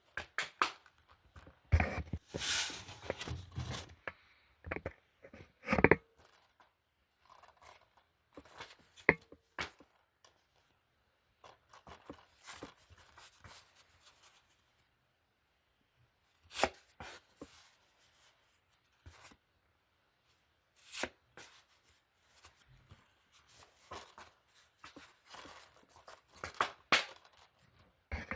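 Plastic DVD and Blu-ray cases being handled: irregular sharp clacks and clicks with rustling and scraping between them, busiest in the first few seconds.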